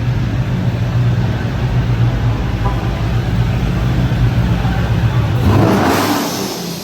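Car engine running with a steady low drone. About five and a half seconds in, a louder rush of noise swells for about a second, then the engine sound falls away.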